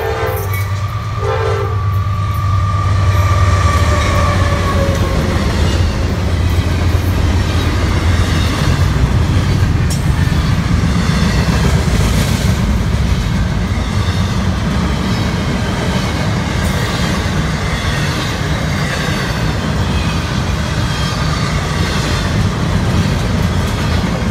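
Diesel freight train passing close by: its horn sounds at the start, with a short blast about a second in and a last note that drops in pitch as the locomotive goes past. Then the steady low rumble of the locomotive and the clatter of the rolling cars run on.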